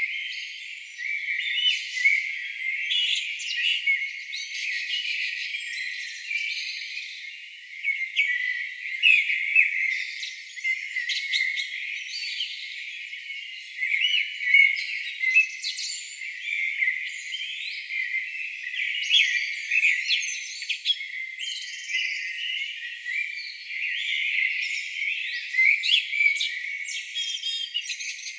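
A chorus of many songbirds singing at once: a continuous tangle of short chirps, trills and sliding whistles. The recording sounds thin, with all the low sound filtered out below the birdsong.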